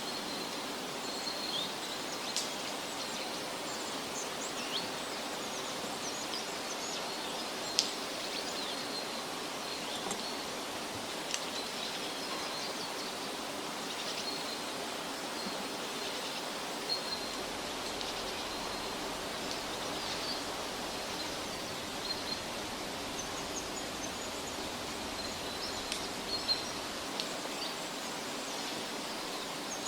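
Outdoor forest ambience: a steady hiss with short, high chirps repeating through it and a few scattered sharp clicks.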